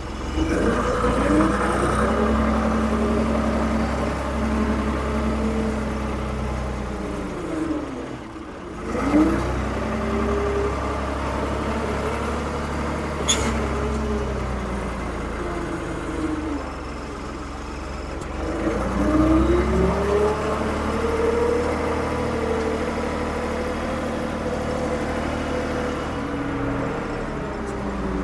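Diesel engine of a 1975 Ford 550 backhoe, with the revs rising and falling in long swells: up at the start, down near eight seconds, up again, down around seventeen, and up once more. There is a single sharp click about thirteen seconds in.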